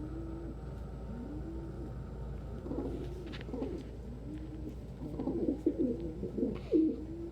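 Domestic pigeon cooing: a low, arched coo repeats about every second, with louder stretches of rapid, rolling cooing about three seconds in and again from about five seconds in, the display cooing of a male pigeon.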